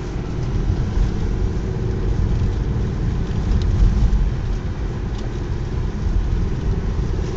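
Steady low rumble of a car driving: engine and tyre noise, with a couple of faint ticks.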